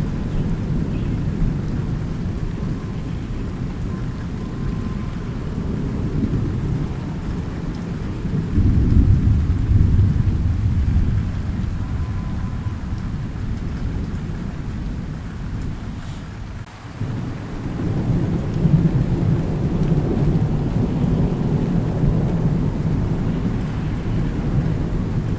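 Thunderstorm: steady rain under continuous rolling thunder. The rumble swells about a third of the way in and again later, with a brief drop just before the second swell.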